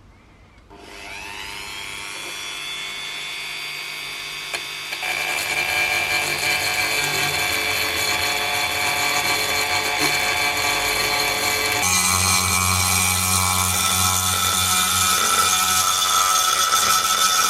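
A small power tool's electric motor spins up about a second in and runs at a steady speed. It grows louder and rougher about five seconds in, and its pitch changes near twelve seconds.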